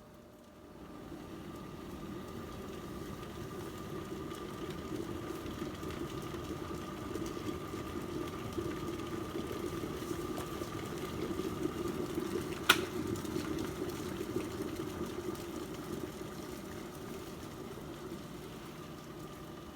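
Breville Crystal Clear glass electric kettle heating water to the boil: a steady rushing rumble with a faint steady hum over it, building about a second in and easing slightly near the end. One sharp click comes about two-thirds of the way through.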